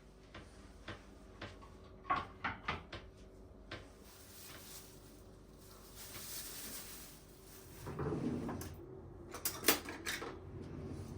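Household handling sounds: a series of light clicks and knocks, a fuller thump about eight seconds in, then a few sharp clicks like a cupboard door or drawer being shut.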